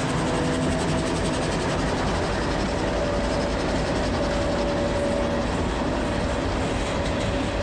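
Empty coal hopper cars of a long freight train rolling past on the rails, a steady, even rumble and rattle.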